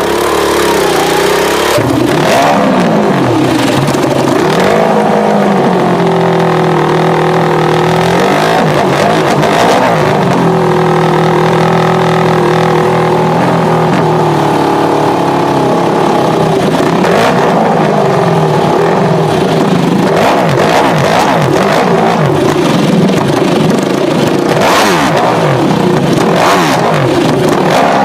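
Ducati Desmosedici V4 racing motorcycle engine revving: the revs climb, hold steady for a few seconds and drop again, over and over. A few sharp cracks come through, once early on and several times in the second half.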